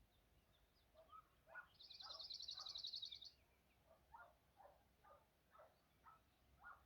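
Faint birdsong: a rapid high trill lasting about a second and a half near the middle, over a series of short lower calls repeated about twice a second.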